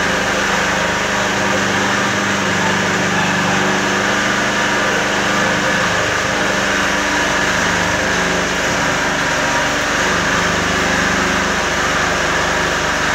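CNC cutting machine running steadily with an even mechanical hum.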